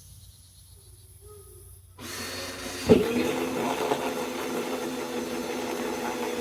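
Power drill starting up about two seconds in, with a sharp knock as it bites, then running steadily as it bores a hole through the wall of the gray-water container.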